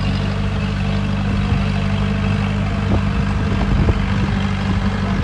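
Diesel engine of heavy earthmoving machinery running steadily, with a couple of short knocks about three and four seconds in.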